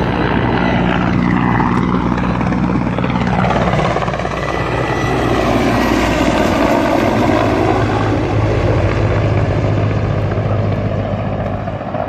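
Helicopter flying close by, its rotor and engine a loud, steady drone that shifts in pitch as it moves.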